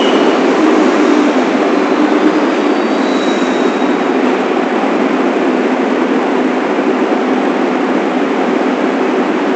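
New York City Subway train running along the track, with a steady loud rumble of wheels and motors. A faint high squeal comes in briefly about three seconds in.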